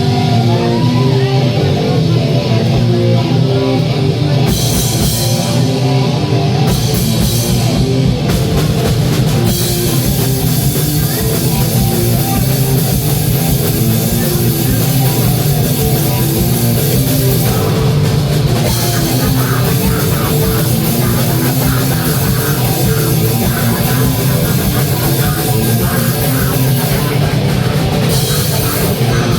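Live rock band playing loud, with distorted electric guitar and drum kit; the cymbals come in about four seconds in.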